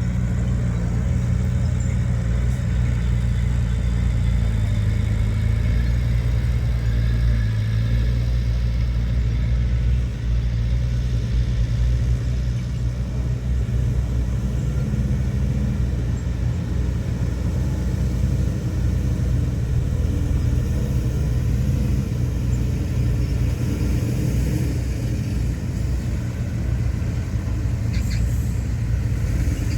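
Diesel engine of heavy earthmoving machinery running steadily under load, with a brief dip about ten seconds in and a short click near the end.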